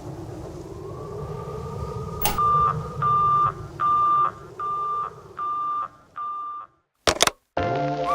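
Sound effects on the song's track. A low rumble is followed by a click and then six evenly spaced electronic beeps of one pitch, each fainter than the last. A short burst of noise comes next, and music starts near the end.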